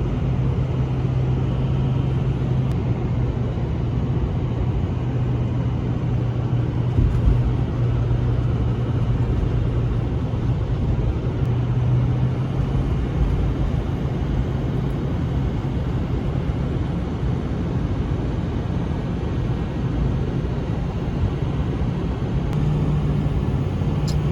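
Pickup truck carrying a camper, driving at steady speed: even road and engine noise with a steady low engine drone.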